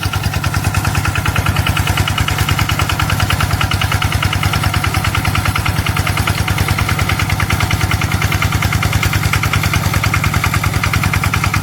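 Small engine of a homemade rice-field sprayer machine running steadily while it sprays, with a rapid, even pulsing of its firing strokes.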